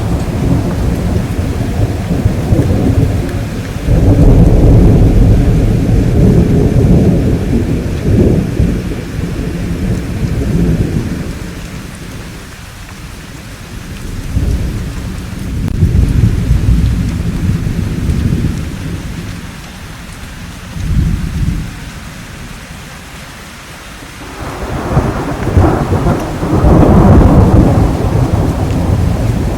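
Thunderstorm: steady rainfall under rolling thunder, deep rumbles that swell and fade several times, loudest about four seconds in and again near the end, with quieter lulls between.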